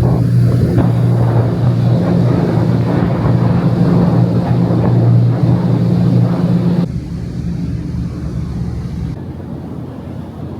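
Ferry's engines droning with a steady low hum under a rushing wash of wind and water noise. The sound drops suddenly about seven seconds in and again near nine seconds.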